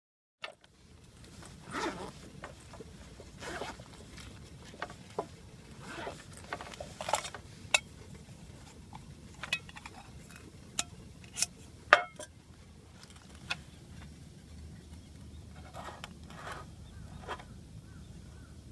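Irregular handling noises: short rustles and scrapes, then a scatter of sharp clicks and knocks, the loudest about twelve seconds in.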